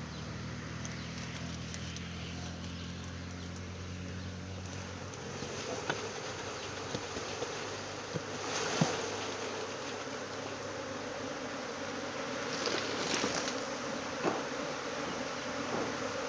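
Swarm of honeybees buzzing, a steady hum that shifts higher about five seconds in, with a few light knocks.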